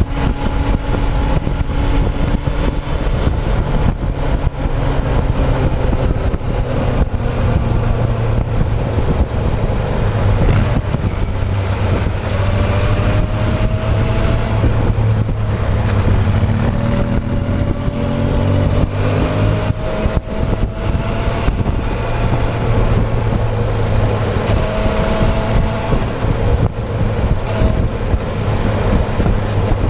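Motorcycle engine running steadily under way, heard up close from a fuel-tank-mounted camera, with wind noise rushing over the microphone. A few faint tones glide in pitch through the second half.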